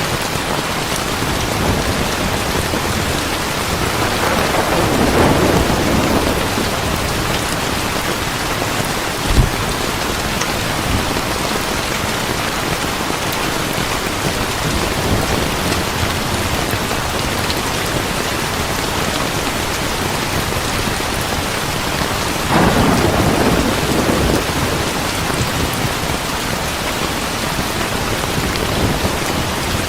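Heavy rain falling steadily, with two rolls of thunder, one about four seconds in and one about twenty-two seconds in, and a single sharp knock around nine seconds in.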